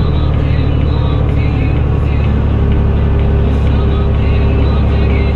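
Fendt Favorit 926 Vario tractor's six-cylinder diesel engine running steadily through an open exhaust.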